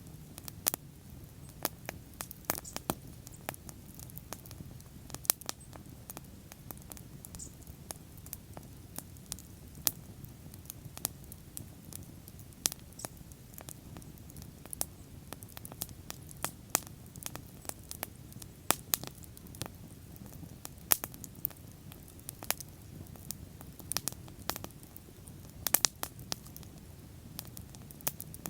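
Wood bonfire burning, with irregular sharp crackles and pops several times a second over a steady low rumble of flames.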